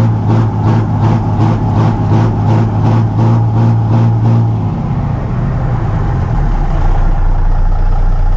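Old Cummins diesel engine in a dump truck running just after a cold start, with a regular pulsing beat of about three a second. About five seconds in the note drops and it settles to a lower, steadier idle.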